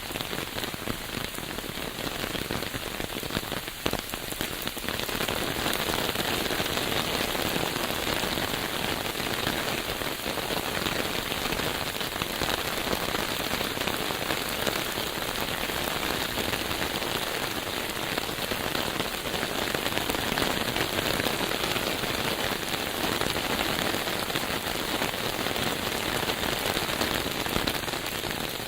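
Steady rain falling, a dense even patter that grows a little louder about five seconds in.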